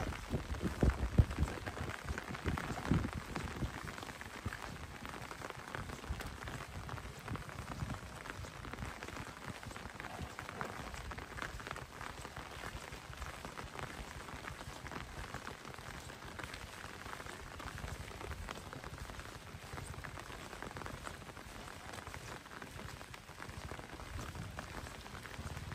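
Rain falling steadily, a dense spread of small drop ticks, with a few heavier low knocks in the first few seconds.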